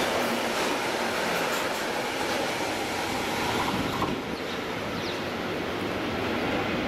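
Freight train of loaded bogie hopper wagons running past on steel rails, a steady rumble of wheels on track. About four seconds in the last wagons have passed and the noise drops a little as the train draws away.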